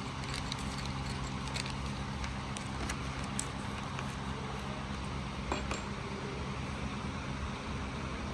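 Light metallic clicks of small steel dowel pins being handled, a few scattered taps over a steady low electrical or fan hum.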